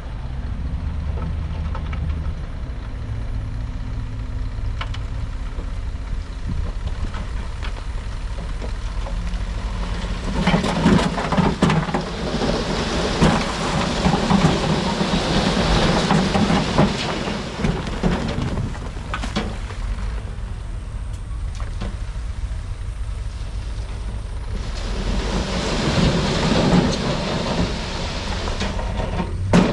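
Heavy diesel earthmoving machinery running steadily, with two long spells of loose rock crashing and rattling as it slides and tumbles, the first about a third of the way in and the second near the end.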